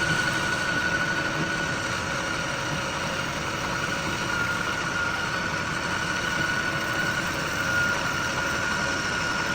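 Metal lathe running while turning a pulley, a steady machine noise with a constant high-pitched whine over it.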